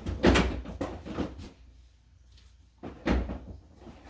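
Kitchen knocks and thuds: a loud one with a few lighter ones in the first second or so, then another loud knock about three seconds in.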